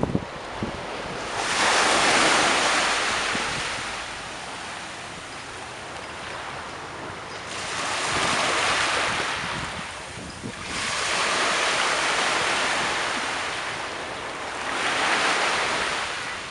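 Surf washing in: four swells of rushing hiss, each rising and falling over a few seconds.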